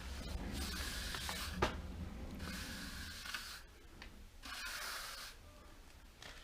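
Three scraping strokes of a trowel spreading cement render over a wall, each about a second long, with a light knock about a second and a half in.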